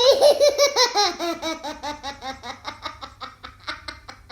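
A young child laughing hard in a long run of quick, rhythmic peals that gradually fade away.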